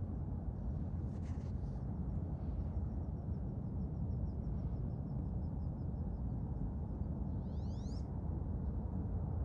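Wood ducks calling: a faint run of quick, high chirping notes, then near the end one rising, squealing whistle. Under it, a steady low rumble.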